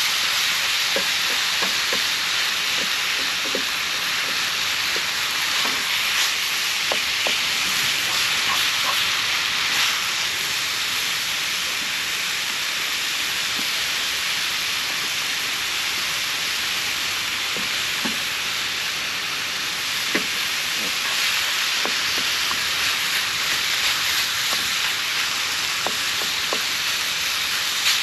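Food sizzling in a hot pan over a campfire: a steady hiss with scattered small pops and crackles.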